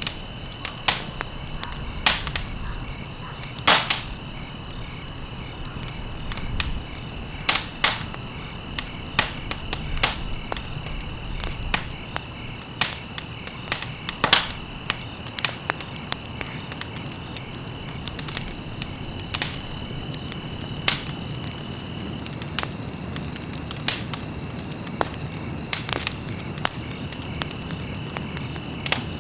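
Wood fire burning in a fireplace: irregular crackles and sharp pops over a soft steady rustle of flame, with a steady high-pitched tone underneath.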